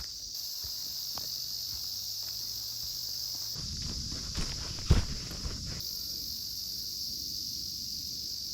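Insects chirring steadily in woodland, with footsteps and rustling on the forest floor and two sharp knocks between about four and five seconds in.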